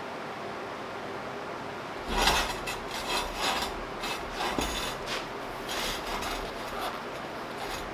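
Quick rasping, scraping strokes on steel, about three or four a second, starting about two seconds in and easing off near the end.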